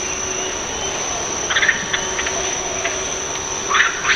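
A steady, high-pitched insect drone of crickets or cicadas. Two short clusters of higher chirping or squeaking sounds come through about a second and a half in and again near the end.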